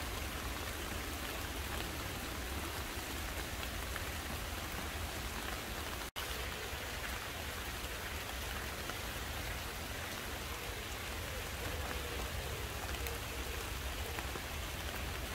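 Steady, heavy summer rain falling on garden foliage, an even hiss of drops pattering on leaves. The sound cuts out for an instant about six seconds in, then the rain continues unchanged.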